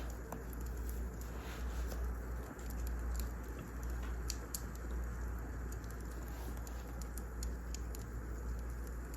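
Wood fire crackling in a fireplace: a steady low rumble under scattered small pops and snaps.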